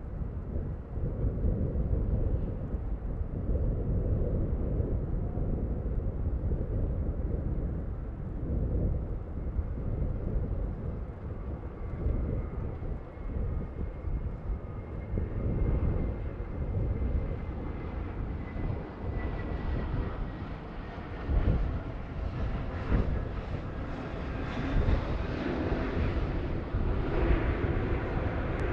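Jet airliner engines drawing nearer and growing louder in the last several seconds, with a faint whine easing down in pitch midway. Strong gusty wind buffets the microphone throughout.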